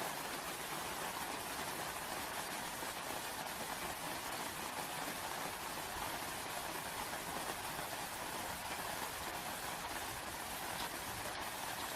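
Steady rain, an even hiss of falling drops without breaks.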